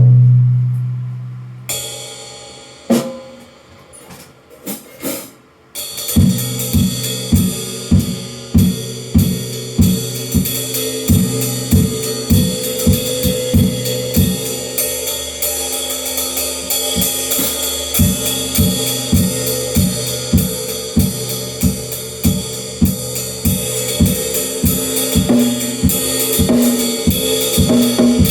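Drum kit played: one loud low drum hit rings out at the start, followed by a few scattered strikes. From about six seconds in it settles into a steady beat of bass drum and snare under a continuous wash of cymbals and hi-hat.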